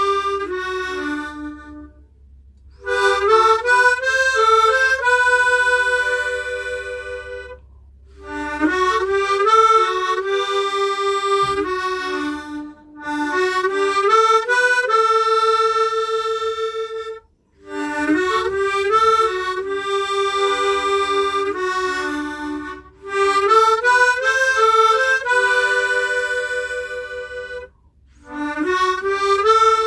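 Hohner Echo Harp tremolo harmonica playing a solo melody with chords, its doubled reeds giving a wavering tremolo. It is played in phrases of a few seconds each, with short breaks between them.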